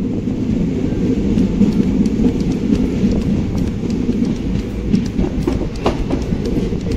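Mussoorie Express passenger coach running along the track: a steady low rumble of wheels and carriage, with a few sharp clicks about five to six seconds in.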